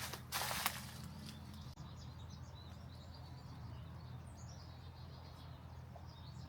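Outdoor ambience of small birds chirping over a steady low rumble, with a brief loud rustling noise about half a second in.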